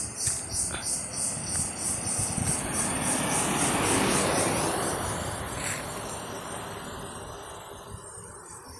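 Crickets trilling in a fast high pulse, fading in the second half. Under them a broad rushing noise swells to a peak about four seconds in, then slowly dies away.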